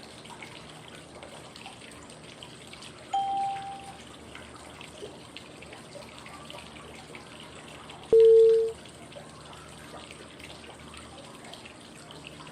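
Steady running-water white noise with short pure cue tones every five seconds pacing 5-5-5 breathing (inhale, hold, exhale): a higher, fainter tone about three seconds in and a lower, louder one about eight seconds in.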